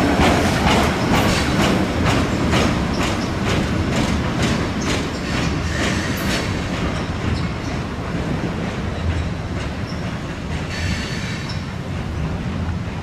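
Ballast hopper cars of a maintenance-of-way freight train rolling past, their wheels clicking in quick pairs over rail joints with a low rumble. The clicks fade out about six seconds in as the end of the train goes by, leaving a steady rumble as it moves away.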